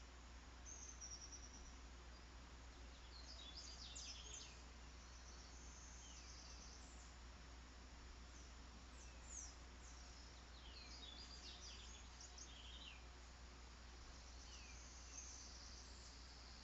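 Faint wild birds chirping in short scattered bursts, with a steady high insect trill that grows stronger near the end, over a low steady hum.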